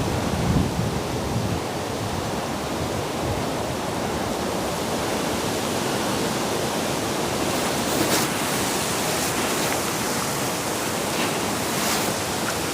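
Steady rushing of a strong southwesterly wind, gusting low in the first few seconds, with a couple of faint clicks in the second half.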